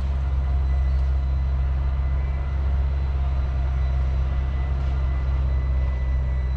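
A train running past or standing close by, making a steady, loud low drone with a faint high whine above it.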